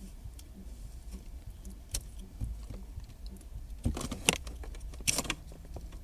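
Plastic wiring-harness connectors rattling and clicking as they are handled and tried against the car's factory stereo plugs, with a few sharp clicks about two seconds in and a louder cluster of clicks and rattles around four and five seconds in.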